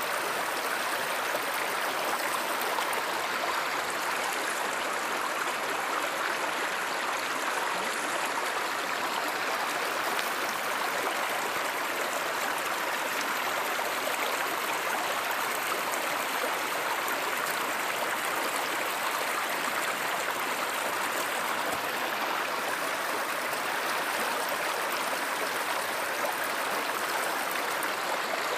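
A river or stream flowing steadily, an even, unbroken rush of water.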